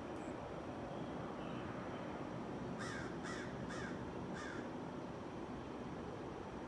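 A bird calling four times in quick succession about three seconds in, short harsh calls roughly half a second apart, over a steady outdoor background hiss.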